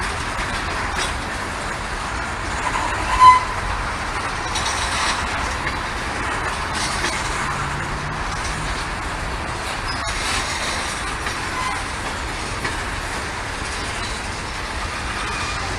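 Norfolk Southern freight train rolling past: a steady rumble of wheels on rail. There is a brief, loud wheel squeal about three seconds in and a fainter one later.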